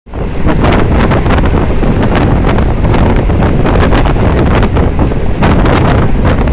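Strong wind buffeting the microphone: a loud, continuous, rumbling rush with ragged gusts.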